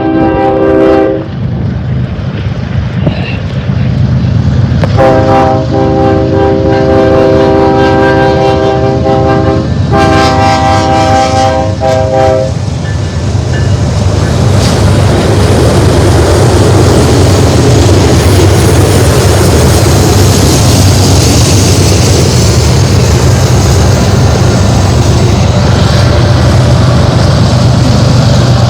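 BNSF diesel locomotive's air horn sounding: one blast ends about a second in, then a long blast and a shorter one, over the steady drone of the diesel engine. From about 14 s the double-stack freight train passes close by with loud, even wheel and rail noise.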